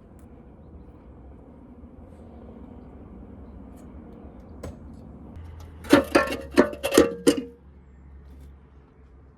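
Metal clanking from dismantling work: about six quick, sharp metal-on-metal strikes that ring, bunched within a second and a half past the middle, over a low steady hum.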